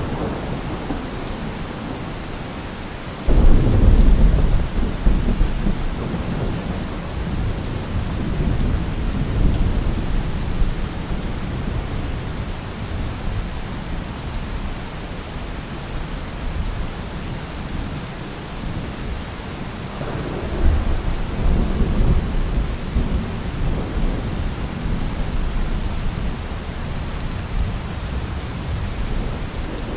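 Steady heavy rain with thunder: a sudden close thunderclap about three seconds in that rolls on as a deep rumble for several seconds, and a second, softer rolling rumble about twenty seconds in.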